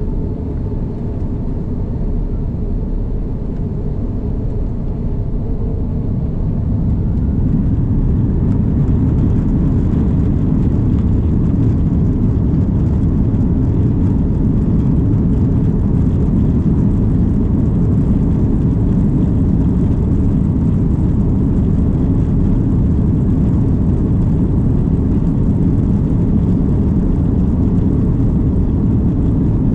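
Steady low rumble of an Airbus A330 airliner in motion, growing louder about seven seconds in and then holding steady.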